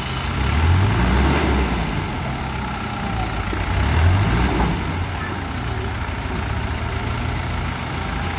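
Kubota M108S tractor's diesel engine working hard under load while pushing a bogged vehicle, revving up twice and settling back between.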